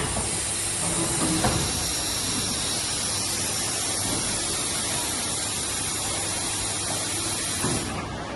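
Steady loud hiss of rushing air or gas from an automatic bottle screen printing machine, starting suddenly and cutting off after about eight seconds, over the low running of the machine.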